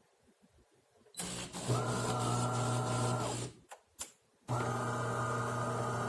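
Espresso machine running in two spells: a steady mechanical hum starts about a second in, stops for about a second in the middle, then starts again.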